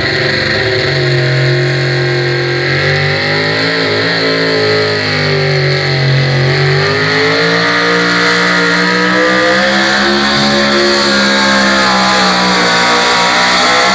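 Chevrolet pulling truck's engine running flat out under load as it drags the pulling sled down the track. The pitch holds high and wavers slightly up and down, with a strong hiss over it.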